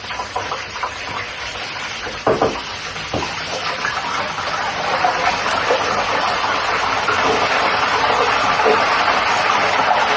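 Hot cooking oil sizzling steadily in a pan as food fries, growing a little louder about halfway through. There are two short knocks a couple of seconds in.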